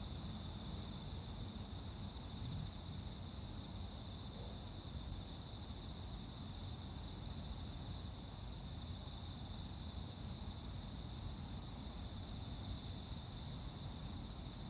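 A steady chorus of singing insects at dawn: a continuous high-pitched trill in two pitch bands, over a faint low background rumble.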